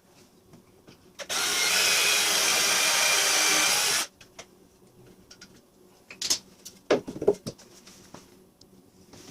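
Power drill running steadily for nearly three seconds, then cutting off suddenly. A few knocks and clunks follow near the end.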